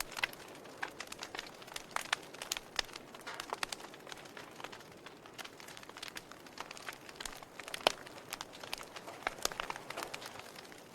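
Wood fire burning in a fireplace, crackling with frequent irregular sharp pops over a soft steady hiss; one louder pop comes about two-thirds of the way through.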